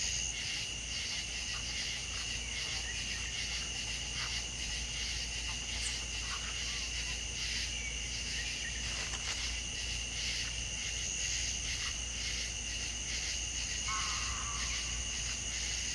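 A steady chorus of insects chirring in two high bands, with scattered short calls from birds or frogs over it and a brief stuttering call near the end.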